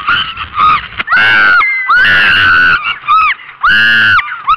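Roller coaster riders screaming: several loud, high-pitched screams of about half a second each, rising and falling in pitch, with shorter yelps between. They are muffled by the camera's waterproof case.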